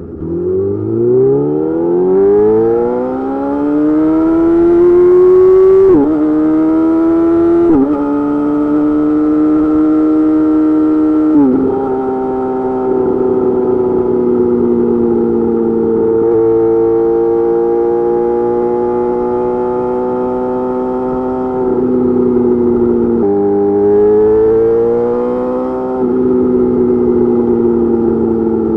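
Yamaha YZF-R6 inline-four through an M4 GP slip-on exhaust with a custom mid pipe, accelerating from low revs and upshifting three times in the first twelve seconds, each shift a sudden drop in pitch. It then cruises at nearly steady revs, with a downshift about 23 seconds in that kicks the revs up before they ease off again.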